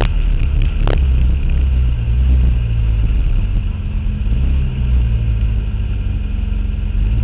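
Toyota car's engine running low and steady at around idle, heard from down by the front wheel, with a single sharp click about a second in.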